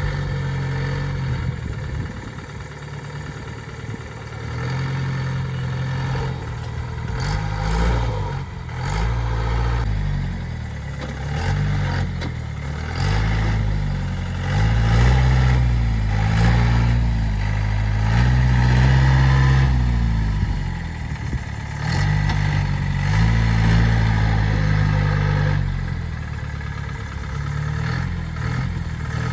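Off-road vehicle's engine revving up and down over and over, its pitch rising and falling every second or two, with scattered knocks and clatter.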